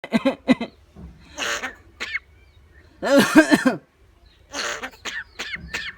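Myna bird calling in a series of short harsh bursts, hoarse hisses and cough-like sounds, with a loud rasping call about three seconds in and quick falling chirps near the end.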